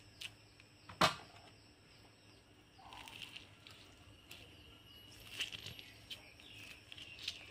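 Mostly quiet, with a single sharp click about a second in, then faint, short, high chirps like small birds in the background.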